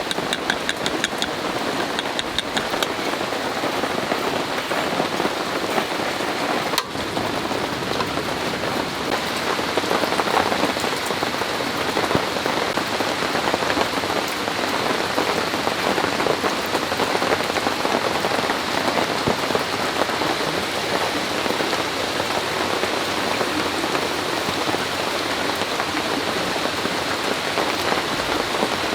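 Heavy rain pouring down steadily in a dense, even hiss, with a single short knock about seven seconds in.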